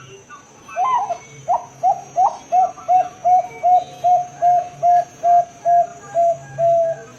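Zebra dove (perkutut, Bangkok type) cooing: an opening note about a second in, then a quick, even run of about a dozen short notes, roughly three a second, ending on a slightly longer note.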